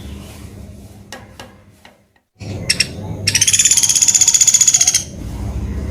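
Pelatuk beras woodpecker giving a fast, high rattling trill that lasts a little under two seconds, starting in the second half after a brief silent gap, with a few scattered clicks before it.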